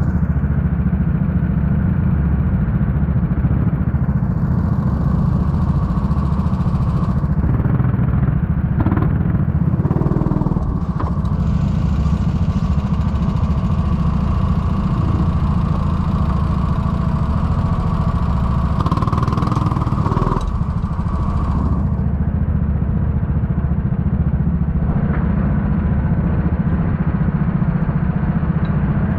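Four-stroke Honda rental kart engine running steadily under load through the lap, heard from a camera on the driver's helmet.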